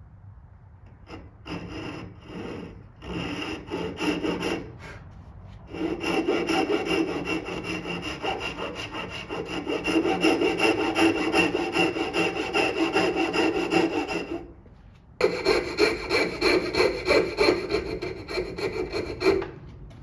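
Hand saw sawing through wood in quick, even back-and-forth strokes. A few short bursts of strokes come first, then two long runs with a brief pause between them.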